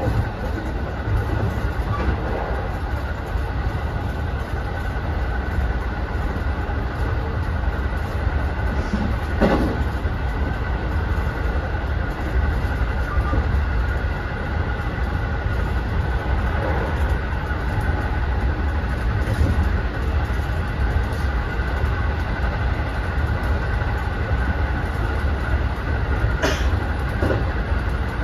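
Running noise inside a JR West 207 series commuter train car (a KuHa 206 driving trailer) moving at steady speed: an even low rumble from wheels on rails with a faint steady tone over it. A couple of brief clacks come through, about nine seconds in and again near the end.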